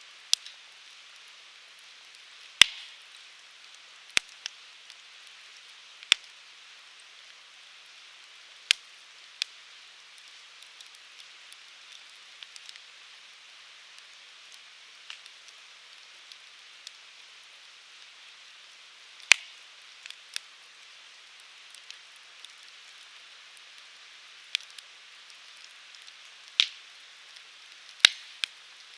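Firewood burning in a Uniflame Fire Grill fire stand: a steady soft hiss with sharp, irregular crackles and pops, about a dozen of them, a few much louder than the rest.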